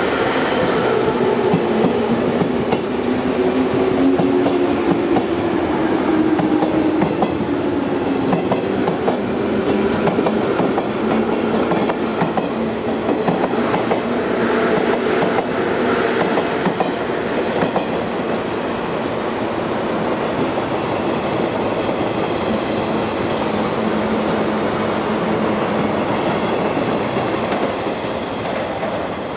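Electric train running close by on the station tracks, its wheels clattering on the rails. A motor whine falls in pitch over the first several seconds, and a thin high wheel squeal comes in the middle.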